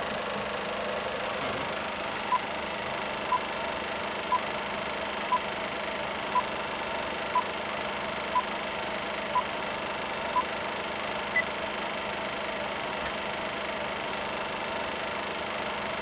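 Film-projector countdown sound effect: an old projector running with a steady rattle, and a short beep once a second. Nine beeps sound at one mid pitch, then a final higher beep about eleven seconds in.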